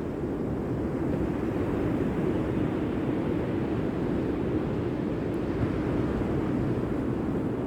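Steady rush of sea surf mixed with wind on the microphone.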